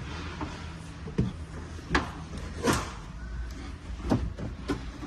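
A series of sharp clicks and knocks, door- or latch-like handling noises, about six spread across a few seconds over a low steady hum.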